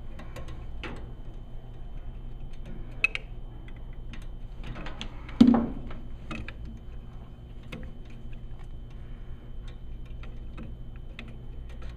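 Small metal clicks and ticks of an Allen wrench working the inlet pressure tap screw out of a furnace gas valve, with one louder knock about five and a half seconds in. A steady low hum runs underneath.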